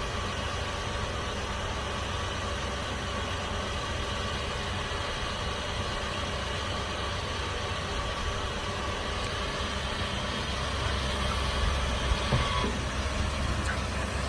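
2008 Chevrolet 4500's Duramax V8 turbodiesel idling steadily with the PTO engaged, driving the hydraulics as the telescopic boom retracts; a thin steady whine sits over the engine hum. About ten seconds in the low hum gets louder, and near the end the whine stops.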